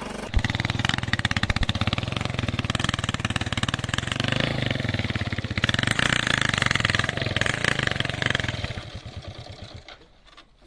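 Motorcycle engine running close by with a fast, even firing pulse, then dying away about nine seconds in.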